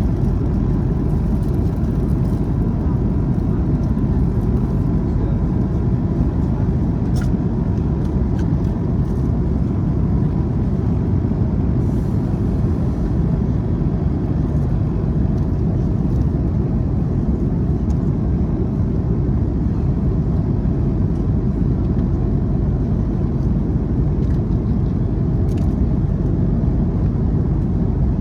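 Steady low cabin noise of a jet airliner in flight: engine and airflow noise that holds even, without change.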